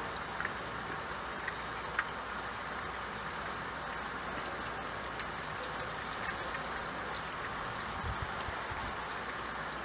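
Steady rain with the occasional louder drop ticking on a surface. About eight seconds in there is a brief low rumble.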